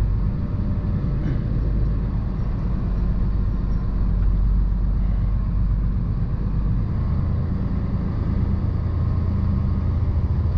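Box truck engine running steadily at low speed while the truck is manoeuvred, heard from inside the cab as a low rumble that eases slightly about seven seconds in.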